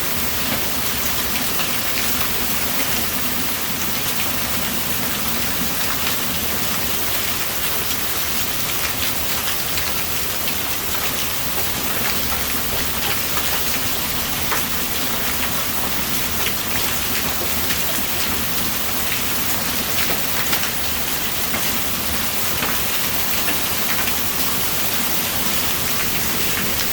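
Storm downpour of heavy rain mixed with hail: a loud, steady hiss of falling water, studded throughout with sharp ticks of stones striking.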